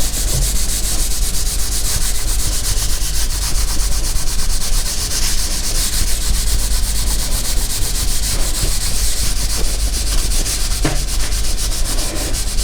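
A damp dishwashing cloth scrubbed rapidly back and forth over greasy ceramic wall tiles: a steady, fast rubbing with many short strokes a second.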